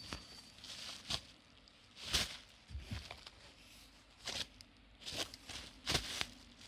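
Irregular rustling and crinkling handling noise, broken by several sharp knocks.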